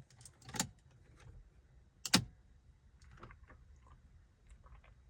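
Two sharp knocks, the second the louder, then a scatter of light clicks: handling sounds in a car just before its engine is started.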